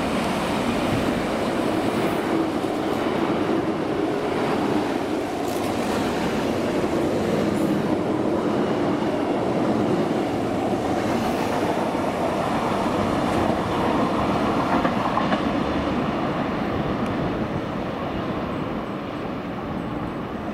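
Fertagus series 3500 double-deck electric multiple unit running through the station, a steady rumble of its wheels on the rails that fades a little near the end as it draws away.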